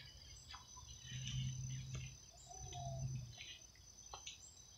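Steady high trilling of late-summer insects, with a few short bird chirps over it.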